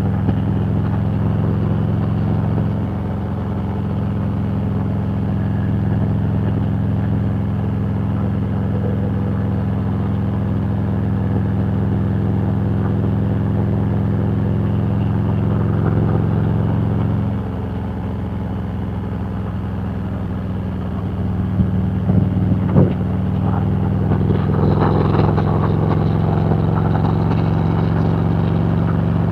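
Harley-Davidson V-twin motorcycle engine running steadily under way at cruising speed. A bit over halfway through the engine note drops and then comes back up a few seconds later, with a few short knocks near the end.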